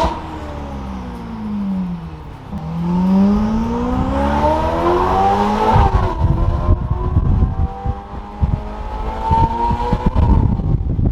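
Ferrari F8 Spider's twin-turbo V8 with a full Boden exhaust, under way: engine pitch falls for about two seconds, then rises hard under acceleration, drops sharply at a gear change about halfway through, and climbs again more slowly before easing off near the end.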